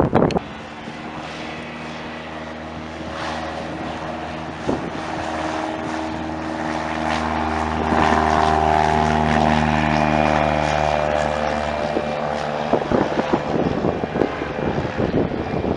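Propeller airplane engine passing by, its steady pitched hum growing louder to a peak about halfway through and then easing off. Wind buffets the microphone at the very start and again over the last few seconds.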